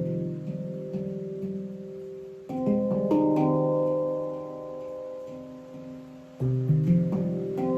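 Handpan being played: clusters of struck, slowly decaying ringing notes, with new phrases beginning about a third of the way in and again near the end.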